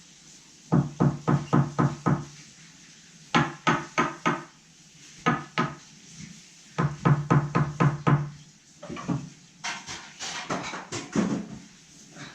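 Quick runs of short knocks or scrapes on a hard surface, four to six strokes at a time, repeated several times with short pauses between runs.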